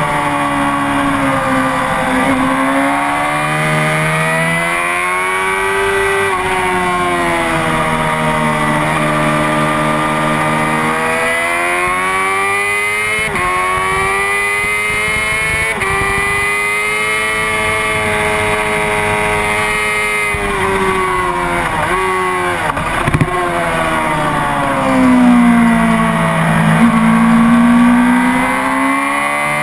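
Honda CBR600RR's inline-four engine revving hard up and down through the gears, its pitch rising steadily and then dropping sharply on downshifts several times. It is loudest near the end.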